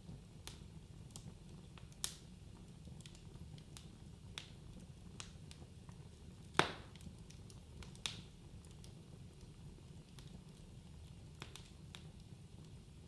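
Wood fire in a fireplace crackling: a low steady rumble of burning logs with scattered sharp pops and snaps, the loudest pop about halfway through.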